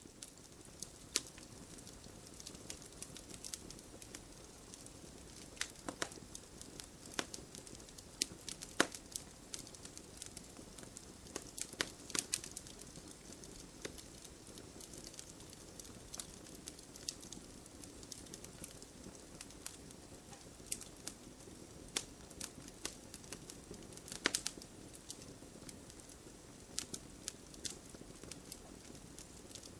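Wood fire crackling: irregular sharp pops and snaps, a few a second, over a steady low hiss of burning.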